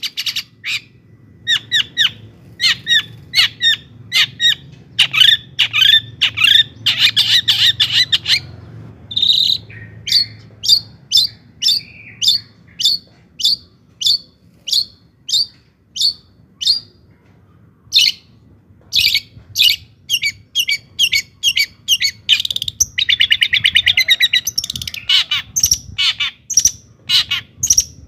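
Long-tailed shrike (cendet) in full song: a string of sharp, high repeated calls, about one a second through the middle, broken by fast rattling trills about seven seconds in and again near the end.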